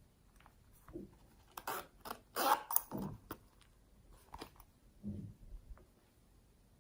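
Hands squeezing and working slime: a cluster of short squishing, crackly bursts, loudest about two and a half seconds in, then a few softer ones.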